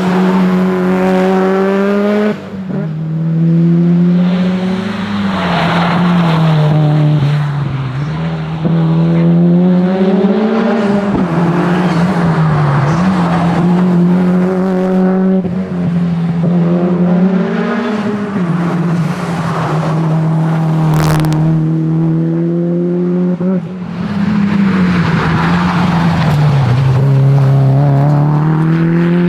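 Subaru WRX STi Spec C's turbocharged flat-four engine driven hard, revving up and falling back again and again through gear changes and corners, with a little tyre squeal. About three-quarters of the way through there is a single sharp crack.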